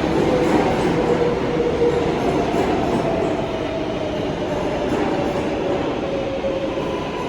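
R188 subway train running on the 7 line: a steady rumble of wheels on rail with a faint wavering whine, easing slightly in loudness toward the end.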